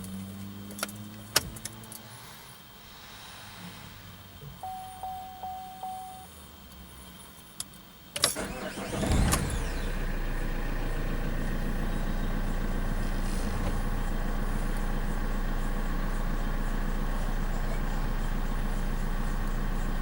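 A Vauxhall Insignia 2.0-litre CDTI turbo diesel starting from cold. A few clicks and several short beeps come first; about eight seconds in the starter cranks briefly, the engine catches with a quick rise in revs, then settles into a steady diesel idle.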